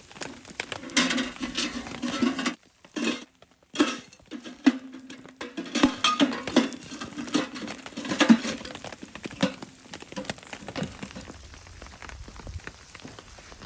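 Metal utensil clinking and scraping in a skillet, in irregular strikes and scrapes, dropping out briefly about three seconds in.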